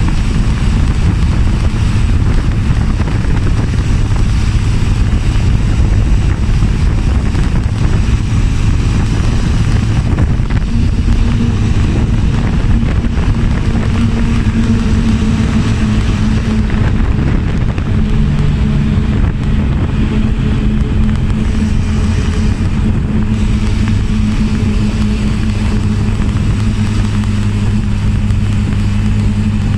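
Motorcycle engine running on the move, its note shifting up and down a few times, under steady wind buffeting on the microphone.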